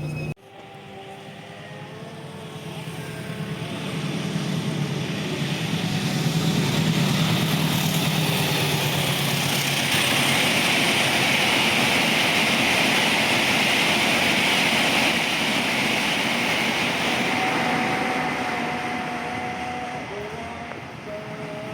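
Passenger train hauled by a CC 206 diesel-electric locomotive passing close by. The locomotive's engine hum is heard first, then the steady rolling noise of the carriages' wheels on the rails, building over several seconds, holding, then slowly fading as the train moves away.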